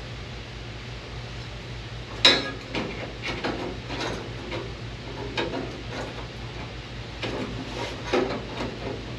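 Irregular metal knocks and clanks from working sheet steel by hand with tools, the first and loudest about two seconds in, over a steady low shop hum.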